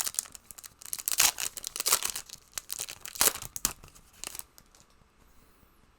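A trading-card pack wrapper being torn open and crinkled, with cards handled, in quick irregular rustles that die away after about four and a half seconds.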